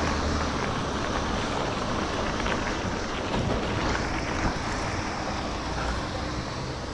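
Wind rushing over the microphone of a moving ride, over a steady low engine hum.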